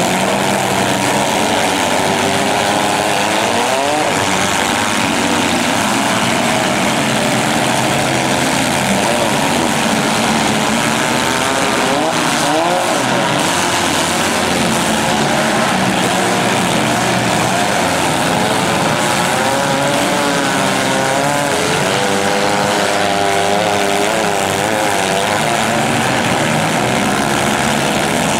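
Engines of several compact demolition-derby cars running and revving at once, their pitches rising and falling and overlapping in a steady din.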